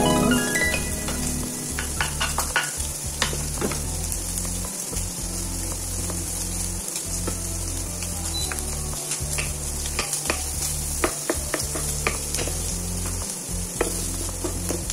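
Chopped onion and garlic sizzling in hot oil in a nonstick frying pan with browned pork belly, a steady frying hiss. A wooden spoon stirs the pan, with scattered light knocks and scrapes against it.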